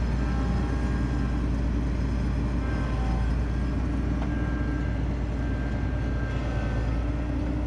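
Diesel engine of heavy farm machinery running steadily, a constant low drone.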